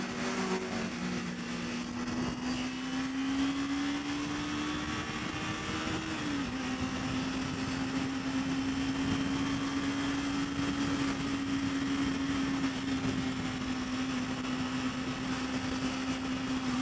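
Kawasaki Ninja 300's parallel-twin engine running steadily at cruising speed, with wind and road noise. Its pitch rises slowly, drops suddenly about six seconds in, then holds steady.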